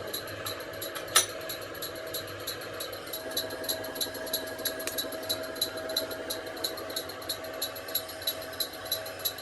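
A machine running steadily with a regular sharp tick about three times a second, and a single sharp click about a second in.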